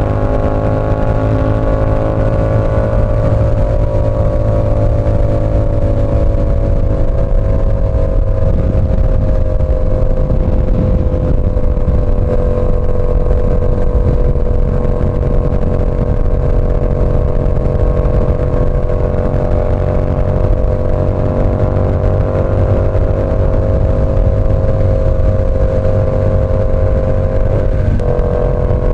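Yamaha R7's parallel-twin engine running through an SC Project CR-T exhaust while riding at a steady cruise. The engine note holds nearly level, with a brief break near the end.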